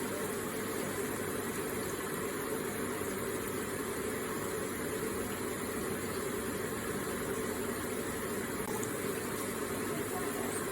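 Electric water feature running, its water trickling and splashing in a steady, unbroken flow.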